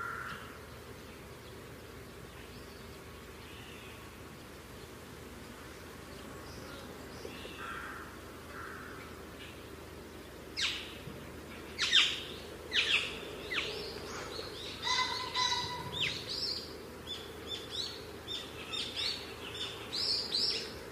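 Birds chirping and calling over a steady background hum. Faint, scattered calls at first, then from about ten seconds in a busy run of loud, quick chirps.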